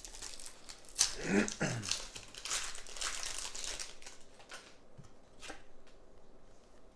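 Foil Pokémon booster pack wrapper crinkling and tearing as it is opened. A short pitched, voice-like sound comes about a second in, and a couple of small clicks come near the end.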